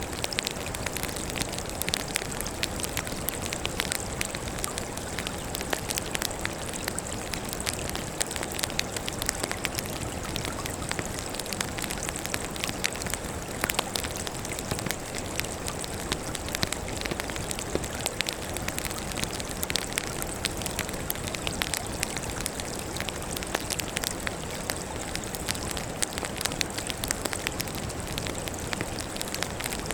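Firewood crackling as it burns: a dense, irregular stream of small pops and snaps over a steady hiss.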